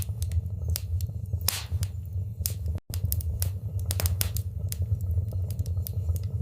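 Wood fire in a fireplace crackling, with irregular sharp pops and snaps over a steady low rumble of the burning. The sound cuts out for an instant a little before halfway through.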